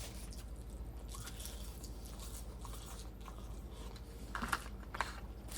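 A person chewing a mouthful of raw mackerel sashimi: soft, faint chewing and mouth sounds, with a few louder wet smacks near the end.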